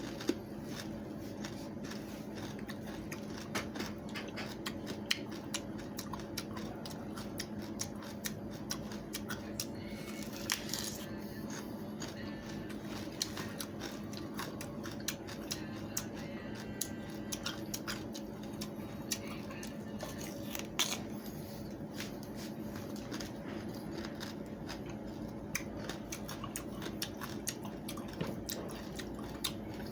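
Close-up biting and chewing of watermelon rind, many small crunchy clicks over a steady low hum.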